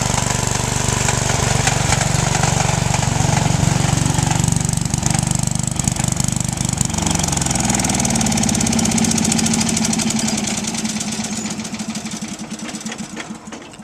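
A lawn tractor's single-cylinder Briggs & Stratton engine running steadily, then slowing about halfway through and winding down as it is shut off, its firing strokes spacing out and fading near the end.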